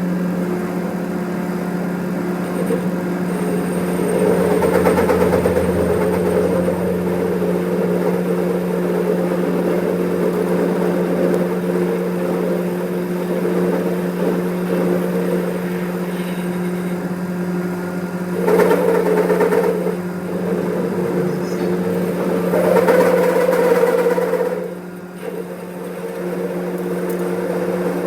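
A machine's motor running steadily with a constant low hum, louder and rougher for a few seconds about five seconds in and again around nineteen and twenty-three seconds.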